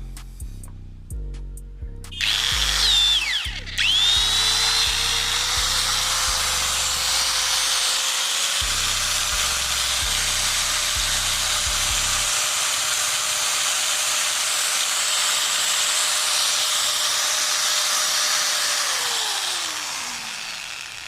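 Bosch GWS 600 angle grinder spinning up with a rising whine, cutting out for a moment and starting again, then running steadily with no load. It is switched off near the end and winds down with a falling whine. This is a test run after an armature replacement.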